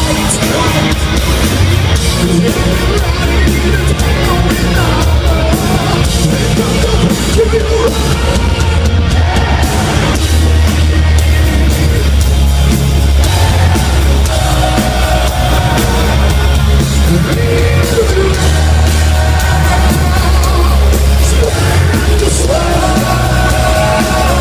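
Heavy metal band playing live at full volume, with heavy bass and sung and shouted lead vocals over the band.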